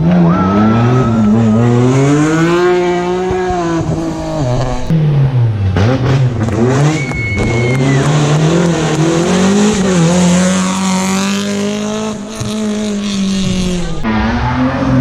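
Rally car engines revving hard and shifting through the gears, pitch climbing and dropping sharply at each change. Tyres squeal briefly near the start and again about halfway through.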